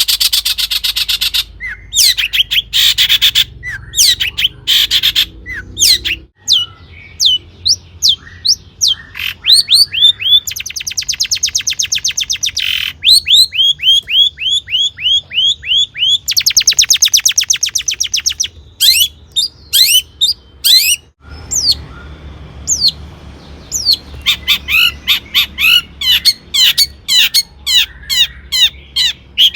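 Long-tailed shrike (cendet) singing a loud, fast, varied song of sharp repeated notes and rapid trills, the full mimicry-laden song that keepers call 'gacor'. It breaks off abruptly twice, as if spliced.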